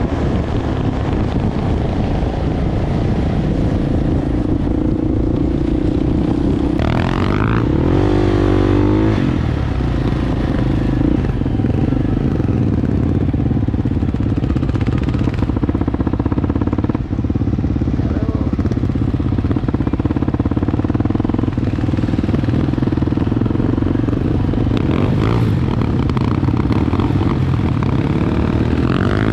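Enduro motorbike engine running while riding. It revs up with a rising pitch about seven seconds in and again near the end.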